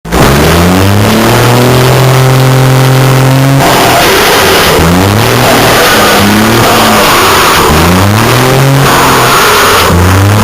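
Car engine with a loud exhaust being revved hard while stationary. It climbs quickly and is held high for about two seconds, then drops, followed by several shorter revs.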